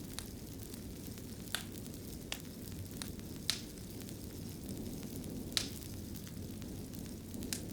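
Wood fire burning in a fireplace: a steady low rumble of flames with irregular sharp crackles and pops, the loudest about one and a half, three and a half and five and a half seconds in.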